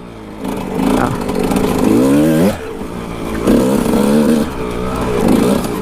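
Kawasaki KX 125's two-stroke single-cylinder engine revving up and down at low speed, with a sharp rise in pitch about two seconds in.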